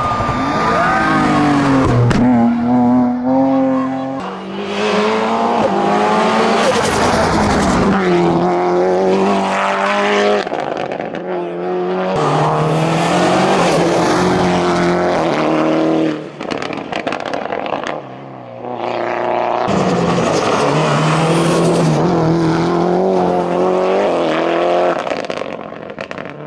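Mitsubishi Lancer Evolution IX hillclimb car at full throttle, its turbocharged 2.0-litre four-cylinder revving up and dropping back at each gear change several times over.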